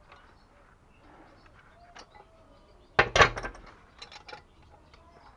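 Hard objects clattering: a quick cluster of loud knocks and clicks about three seconds in, then a few lighter clicks, as plumbing parts are handled during disassembly.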